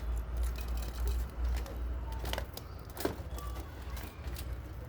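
Aviary birds calling sporadically with brief thin chirps, among scattered sharp clicks and a steady low rumble.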